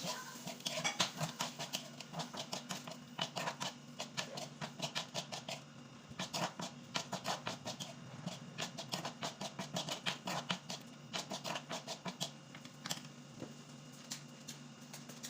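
Rapid, irregular clicks and taps, several a second, of the kind made by stirring or eating, with a steady low hum underneath.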